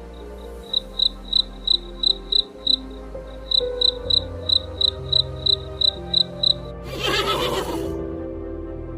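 Cricket chirping in even pulses, about three a second, over soft background music. The chirping stops and a horse neighs for about a second near the end.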